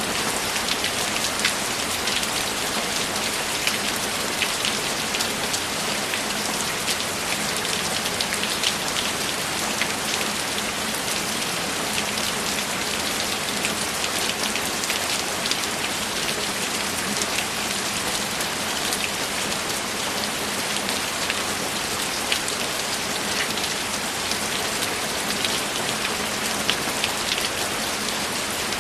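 Steady rain, a dense hiss with many small drop impacts pattering on a surface.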